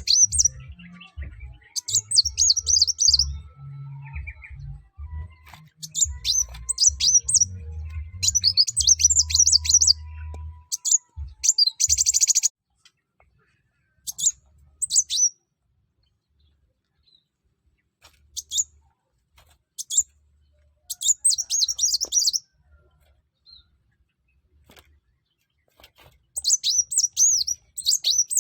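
Kolibri wulung sunbird singing in full song: phrases of rapid, high chirps and trills, each about a second long, repeated with pauses between them. A low rumble runs under the first half.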